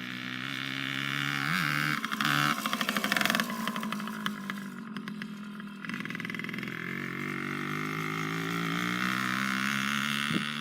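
Small 90cc four-wheeler engine revving up hard about two seconds in with a rapid stuttering pulse, then easing off and running steadily, with another rise in revs near the end.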